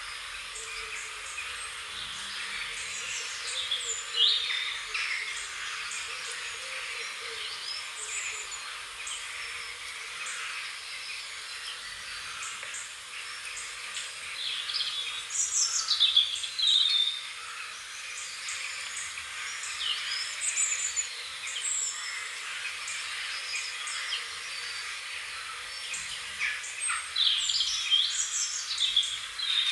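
Wild songbirds chirping and singing: many short, quick calls over a steady hiss, with louder flurries about four seconds in, around the middle and near the end.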